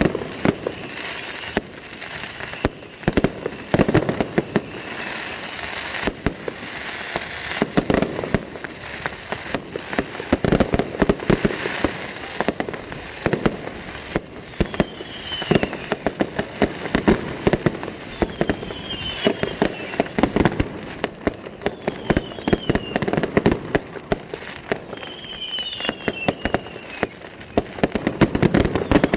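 Fireworks display going off in a continuous stream of bangs and crackling, with short high falling whistles every few seconds in the second half.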